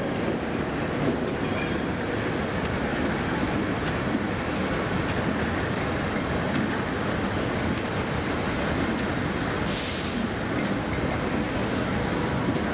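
A train of vintage passenger coaches rolling slowly past, with a steady rumble of wheels on the rails, a few light clicks near the start and a short hiss about ten seconds in.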